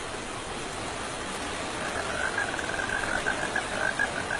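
Steady rain falling, an even hiss that grows slightly louder. About halfway a high, rapid pulsing trill joins in.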